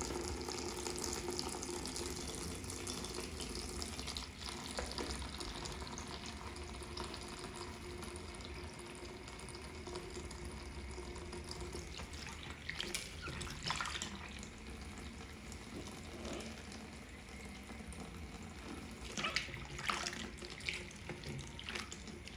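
Water running from a tap into a sink as a makeup sponge is washed, with a few louder, sharper bursts about halfway through and again near the end.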